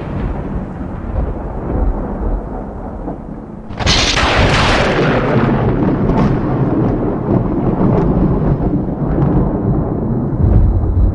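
Loud, deep rumbling booms, with a sudden crash about four seconds in that rumbles on afterwards.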